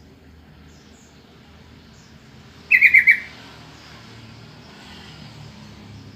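Yellow-vented bulbul (trucukan) giving one short, loud call of about four quick notes about three seconds in, over a faint steady background hum.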